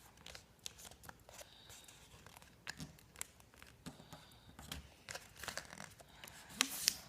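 A sheet of paper being folded and creased by hand: faint scattered crinkles, taps and rubs, with a couple of louder rustles near the end.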